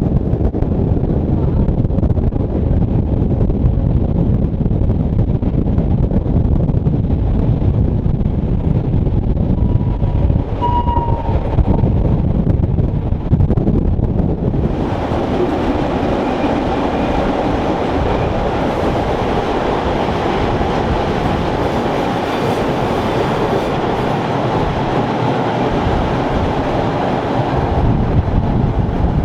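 A Rhaetian Railway train running on the Bernina line with a steady rumble. About halfway the noise suddenly turns brighter and hissier. A brief high tone sounds about ten seconds in.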